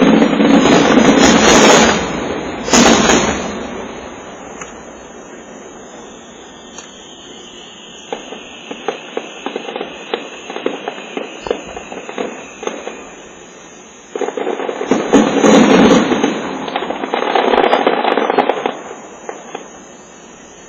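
Fireworks bursting: heavy booming in the first two seconds and a sharp bang just before three seconds, then a quieter stretch of scattered crackles with a faint, slowly falling whistle, and another barrage of bursts from about fourteen to nineteen seconds.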